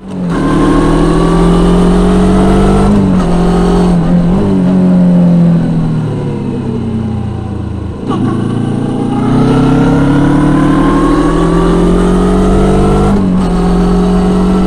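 Suzuki GSX250R's parallel-twin engine through an aftermarket slip-on muffler, accelerating with a drop in pitch at a gear change about three seconds in. Its pitch falls off in the middle as it slows, then climbs again with another shift near the end.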